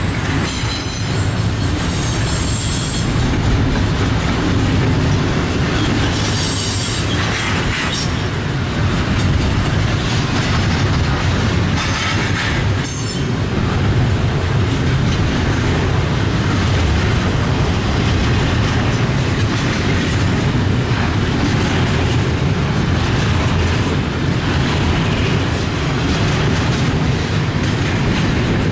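Double-stack intermodal train of container-laden well cars rolling past: a steady, heavy rumble of steel wheels on rail, with a few brief high-pitched squeals about a second in, around seven seconds and around twelve seconds.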